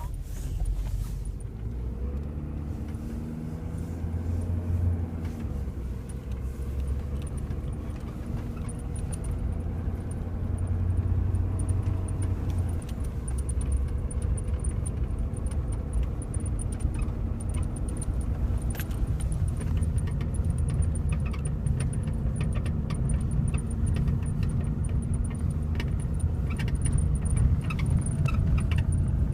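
Ford 6.7 L Power Stroke turbodiesel V8 of a 2011 F-350 Super Duty running steadily, heard from the truck, getting a little louder about ten seconds in. Light clicks and rattles come through over the engine in the second half.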